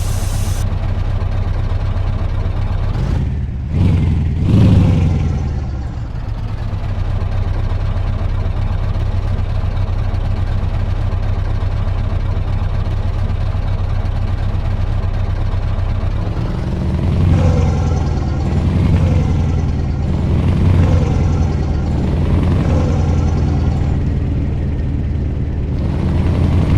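Scania V8 truck diesel engine running steadily. Around three to five seconds in its note dips and then climbs again, and from about sixteen seconds on it swells and eases every couple of seconds.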